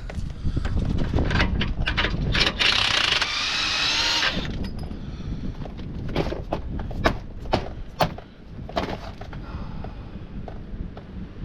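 Tools clinking and knocking on metal during work on a truck's rear axle, with a power tool whining for about two seconds starting some two and a half seconds in.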